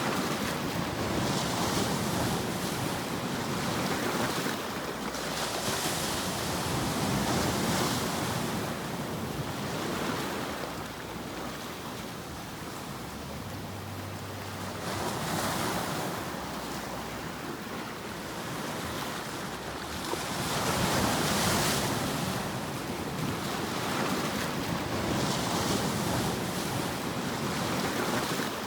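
Rushing white noise for sleep, wave-like: it swells up and eases off in slow, irregular surges every few seconds, like surf washing in.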